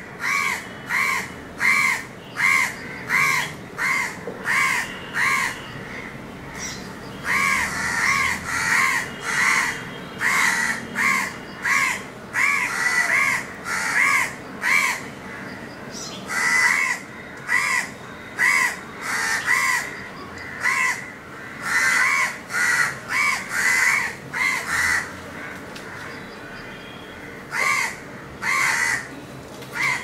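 Bird calls: short, harsh notes repeated about two a second in long runs, with brief pauses.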